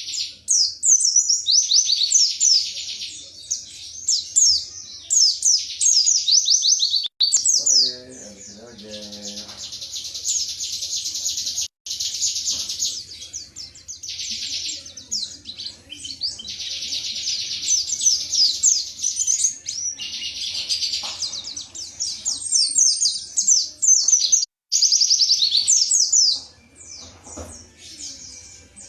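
Pleci (white-eye) singing in long bursts of rapid, high twittering with fast-falling notes, broken by short pauses.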